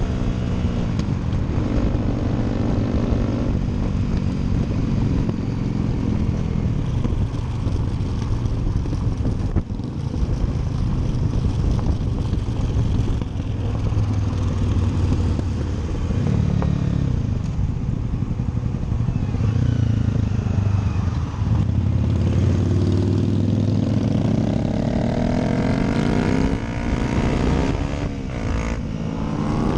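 Motorcycle engine running under way, its pitch rising and falling repeatedly as it accelerates and shifts, with several quick drops and climbs near the end.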